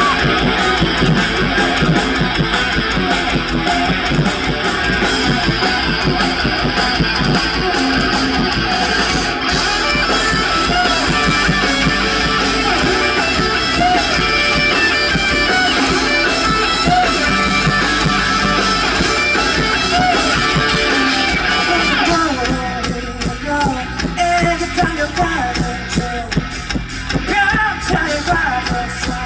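Live rock band music led by electric guitar, loud and dense. About 22 seconds in it drops to a sparser, quieter passage.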